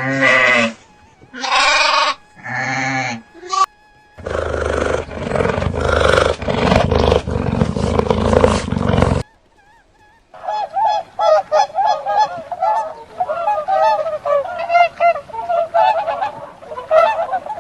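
Animal calls in three runs: a few short, loud pitched calls, then about five seconds of loud noise with no clear pitch, then rapid chattering calls after a short pause.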